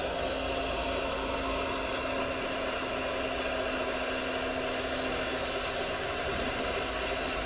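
Steady electric whine of radio-controlled model construction machinery running. Several high tones hold steady, and a lower tone drops out about six seconds in.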